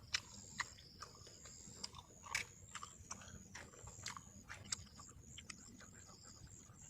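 A person eating beef soto, chewing with irregular sharp clicks and smacks. Behind it runs a steady high-pitched chirring of night insects in short pulses.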